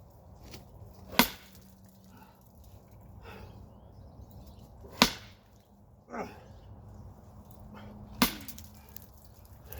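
Sledgehammer striking wood: three heavy blows, about three and a half seconds apart.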